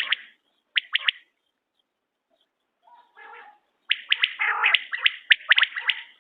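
Quail calling: quick series of sharp, high notes with a hoarser sound beneath them. A short group comes at the start, then a pause, then a longer run from about four seconds in.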